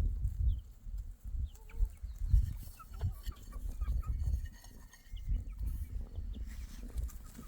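Faint short chirps of farmyard fowl over a loud, uneven low rumble that swells and fades throughout.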